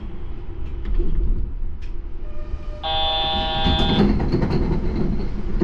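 Low rumble of a Yurikamome automated train. About three seconds in, a held electronic buzzer tone sounds for about a second and stops sharply: a door-warning signal following the 'please be careful' announcement.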